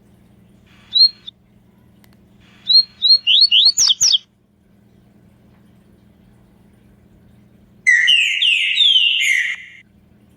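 Songbird calls: a single short whistled note about a second in, then a quick run of about seven whistled notes, then after a pause a two-second burst of fast, falling slurred notes near the end.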